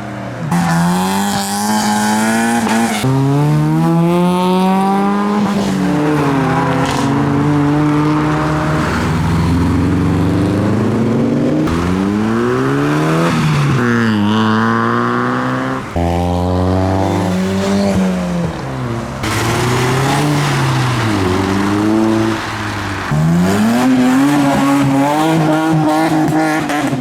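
Modified cars accelerating away one after another, each engine note climbing through the revs and falling off as it passes, with several cars overlapping at times.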